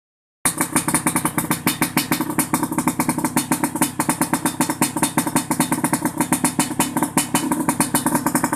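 Yamaha RX-King's two-stroke single-cylinder engine running at idle through an aftermarket under-slung expansion-chamber exhaust, a fast, even stream of exhaust pulses starting about half a second in.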